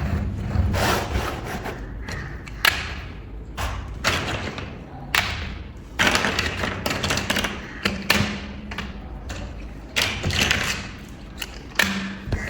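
Plastic building bricks being handled and pressed together: a few sharp clicks and taps, with scraping, rustling handling noise between them.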